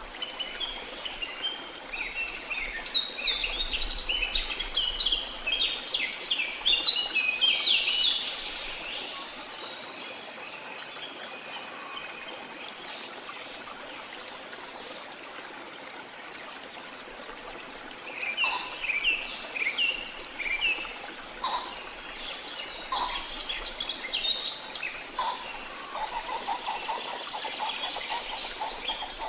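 Steady rush of running water under many birds chirping and twittering. The birds are busy for the first eight seconds, fall quiet in the middle, and start again about eighteen seconds in.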